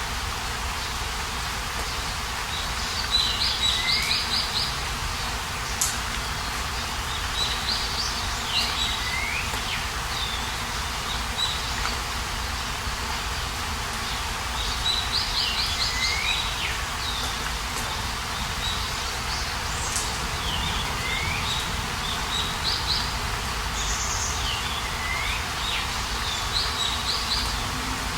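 A songbird singing the same short phrase over and over, about every four seconds: a quick run of high notes ending in a falling slur. A steady outdoor background hiss runs underneath.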